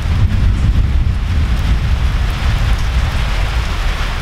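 Heavy rain pouring down, a steady loud hiss with a deep rumble underneath.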